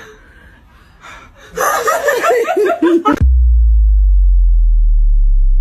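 A person laughing in short breathy bursts for about a second and a half, then a loud low drone that starts suddenly and slowly sinks in pitch.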